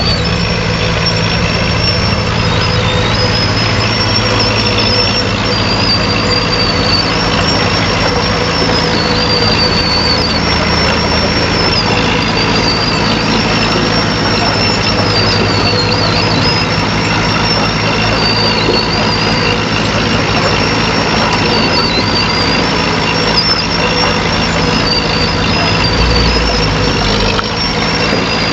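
Heavy diesel earthmoving machine running steadily, with a high squeal that repeats about every two seconds over the engine.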